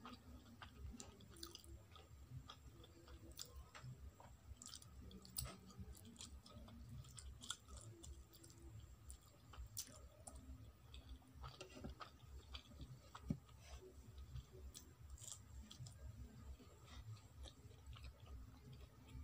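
Quiet, close-up chewing of soft instant noodles, with small wet mouth clicks scattered throughout and one sharper click about two-thirds of the way in.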